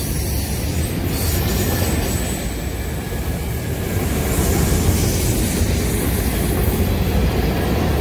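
A freight train's autorack cars rolling past at speed: the steady noise of steel wheels running on the rails.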